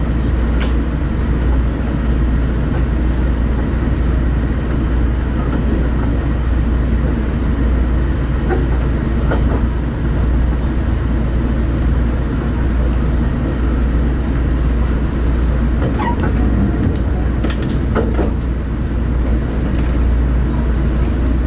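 Diesel railcar running along the track, heard from on board: a steady low rumble of engine and wheels, with a few short clicks here and there.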